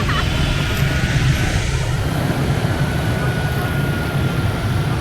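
Ride on a motor scooter through heavy rush-hour traffic: a steady rumble of engines and road noise, with a faint high whine that slowly drops in pitch.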